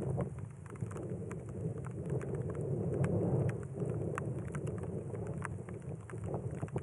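Desert rainstorm: rain falling, with many separate drops ticking sharply close by, over a steady low rumble of wind on the microphone.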